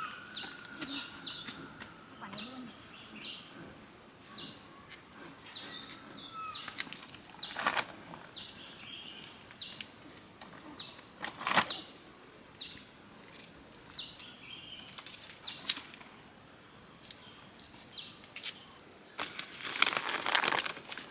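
A steady, high-pitched insect drone, with a string of short falling chirps over it. There are two sharp clicks partway through, and near the end the drone jumps higher in pitch under a burst of rustling.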